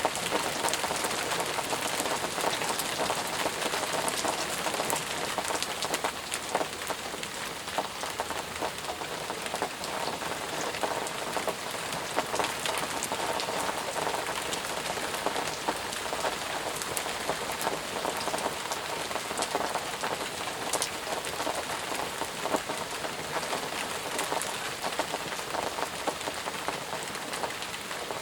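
Steady heavy rain falling, with many separate drops pattering on surfaces close by.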